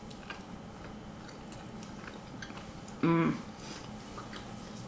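A person chewing a bite of spinach-crust broccoli pizza with the mouth closed, making small clicking mouth sounds, with a short hummed "mmm" about three seconds in.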